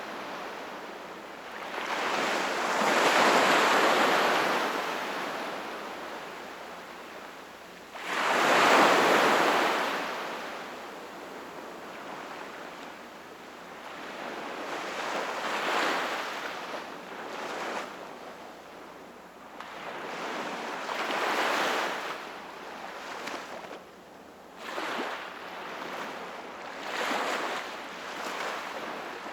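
Sea waves breaking and washing on the shore in slow surges, one wave crashing suddenly and loudly about eight seconds in, followed by several smaller washes.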